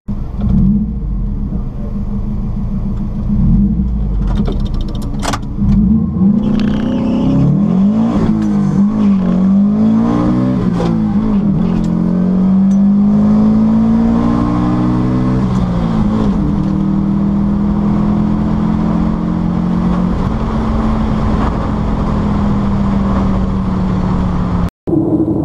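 Subaru flat-four engine in a VW Beetle, heard from inside the car on a drag run. It holds steady revs at first, then revs up through the gears, the pitch dropping back at each of several shifts, and then runs on at steady, slowly falling revs as it eases off after the run.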